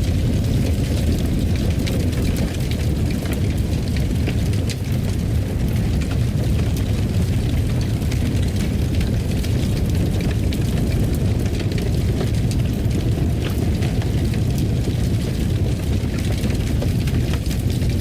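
Fire burning in a fireplace: a steady low rumble with many small crackles and pops scattered through it.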